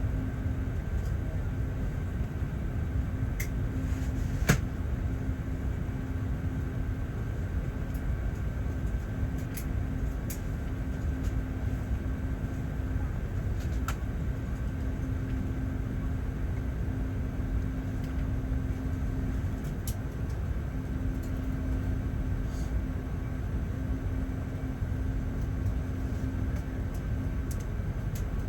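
Steady cabin noise inside an Airbus A380: a low rumble with a constant hum and a faint high steady tone, broken by a single sharp click about four and a half seconds in.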